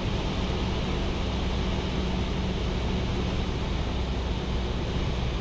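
Cessna 172's piston engine and propeller droning steadily in the cabin during an approach, with carburettor heat just applied.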